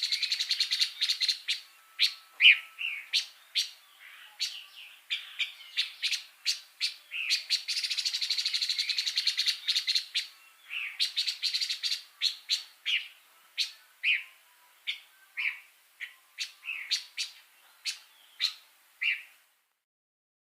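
A pancawarna songbird singing. Fast rattling trills come twice, near the start and about eight seconds in, with sharp separate chirps and short whistled notes between them. The song stops about a second before the end.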